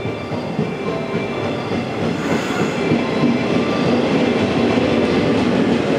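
Yellow JR West 115 series electric train pulling into the platform and running past close by. Its wheels rumble and clatter over the rail joints, with some thin squealing tones, growing steadily louder as the cars come by.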